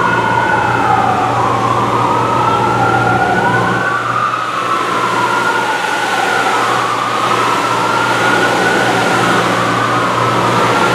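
Two fire truck sirens wailing together, out of step with each other, each sweeping slowly up and down in pitch every three to four seconds, over a steady low drone.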